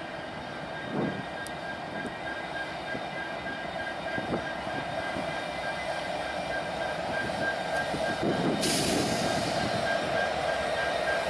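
Train rolling past, its cars rumbling with scattered knocks, growing gradually louder, with a thin steady high whine and a burst of hiss about eight seconds in.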